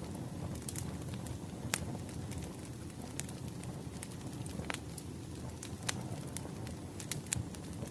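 Wood fire crackling: a steady low rumble of burning logs with sharp, irregular pops and snaps, a handful of them louder than the rest.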